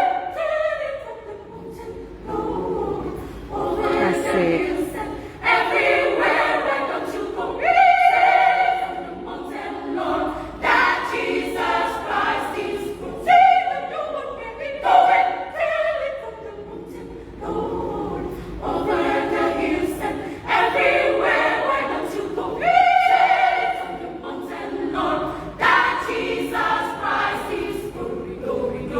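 Women's choir singing in parts, in phrases that swell and fall, some notes held.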